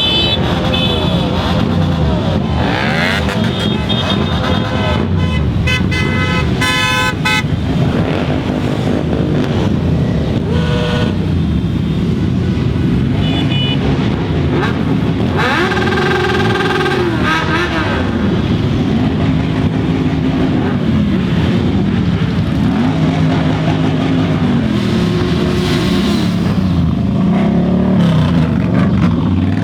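Many motorcycles passing in a continuous stream, their engines running and revving, with pitch rising and falling as they go by. Horns sound several times, mostly in the first half.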